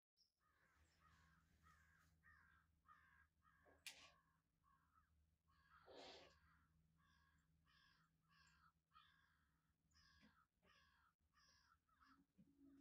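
Faint bird calls repeated in a steady series, about two a second, with a sharp click about four seconds in.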